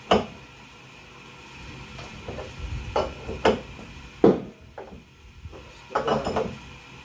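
Sharp metallic knocks and clanks, struck singly every second or so with a short cluster near the end, the loudest about four seconds in, as the transmission of a Brastemp washing machine is worked loose from its tub.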